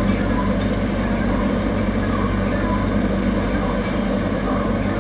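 Heavy diesel road-construction machinery running steadily with a constant low engine drone.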